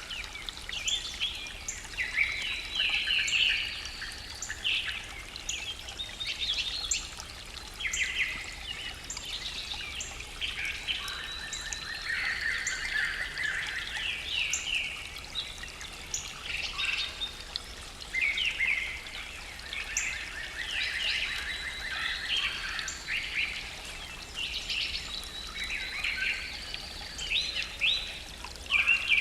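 Morning forest bird chorus: many birds singing and calling at once, with overlapping quick chirps, trills and a few longer rising whistles.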